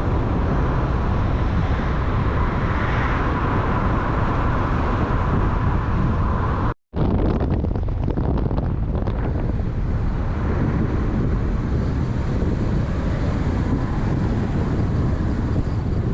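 Steady rumble of a moving vehicle with wind buffeting the microphone. The sound cuts out for a moment about seven seconds in, then the rumble resumes.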